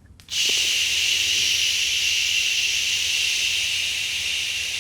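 A long, forceful exhale hissing out through the mouth for several seconds, starting suddenly and slowly tapering off.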